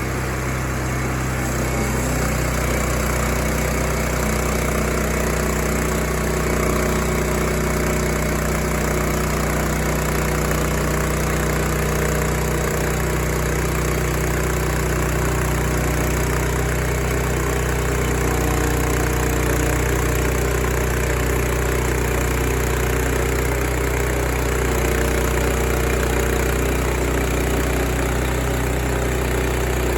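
Sawmill's gasoline engine running steadily at a constant pitch.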